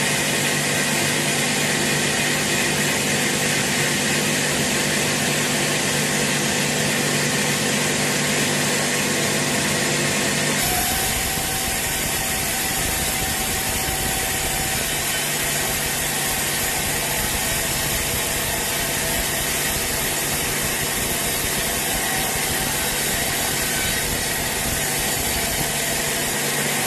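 A sawmill saw running steadily as it cuts through a large teak log, a dense machine noise over a steady hum. About ten seconds in the sound changes abruptly to a rougher, deeper rumble.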